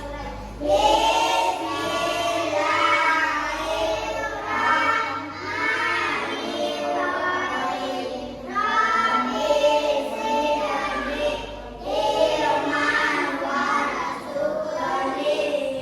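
Children singing a song together, in phrases with short breaks about halfway and three-quarters of the way through.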